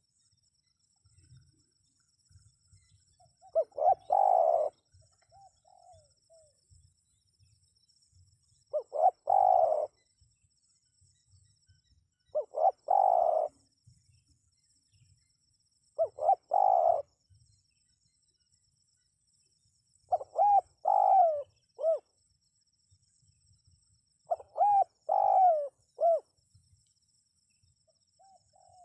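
Spotted dove cooing: six short, repeated coo phrases, one every three to four seconds, with quiet pauses between.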